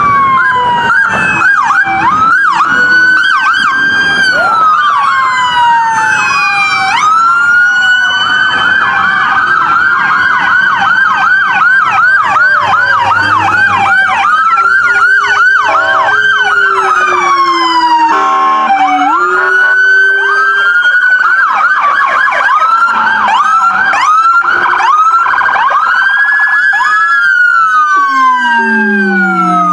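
Several police car electronic sirens sound at once, overlapping slow wails and fast yelps. A brief horn blast comes about two-thirds of the way through, and a low siren tone falls in pitch near the end.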